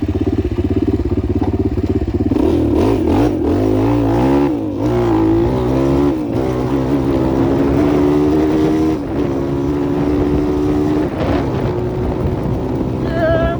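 Enduro motorcycle engine running at low revs, then revved up and down from about two seconds in and held at a steadier, higher note. The revving comes as the rear wheel spins for grip in mud.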